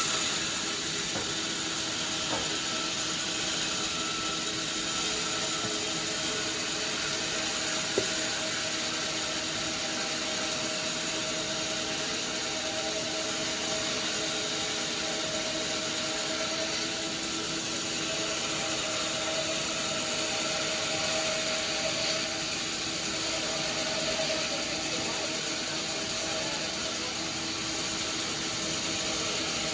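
Sawmill machinery running steadily, a constant mechanical drone with a high whine over it. There is a single short knock about eight seconds in.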